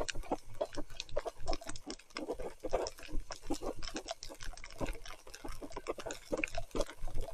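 Mountain bike ridden through wet mud: a rapid, irregular run of squelches, splashes and small rattles.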